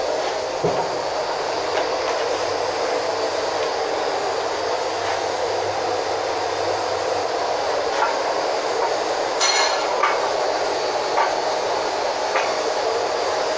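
Steady rushing background noise with a few short clicks and clinks scattered through it, the sharpest about nine and a half seconds in.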